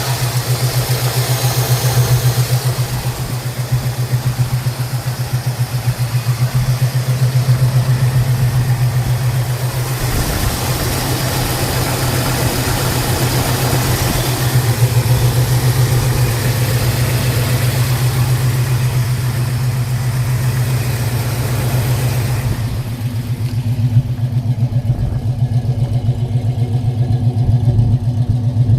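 Mildly built 350 cubic inch small-block V8 idling steadily with a pulsing exhaust note through long-tube headers and dual exhaust. A hiss above the engine drops away about 23 seconds in.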